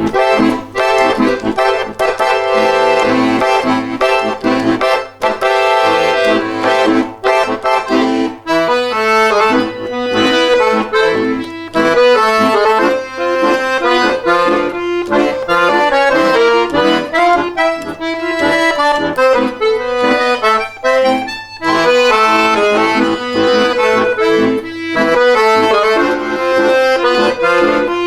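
Accordion and bayan duet playing a lively instrumental piece, quick runs of notes over held chords.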